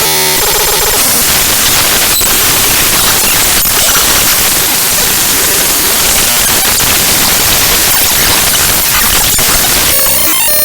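The raw binary data of ffmpeg.exe played back directly as audio: loud, harsh static-like noise, with buzzy pitched stretches in the first second and near the end and a few sharp clicks in between.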